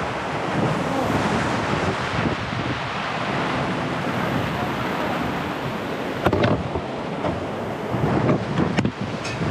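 Strong storm wind gusting across the microphone over rough water, a steady loud rush, with a few sharp knocks about six seconds in and again near the end.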